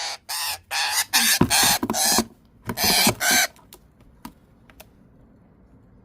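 Eastern rosella parrot giving a rapid series of harsh squawks, about two a second, which stop about three and a half seconds in; a few faint clicks follow.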